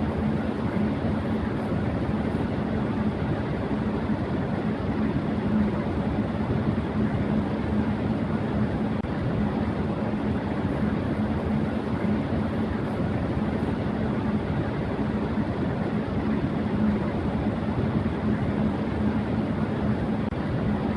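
Electric fan running at high speed: a steady rush of air with a constant low hum.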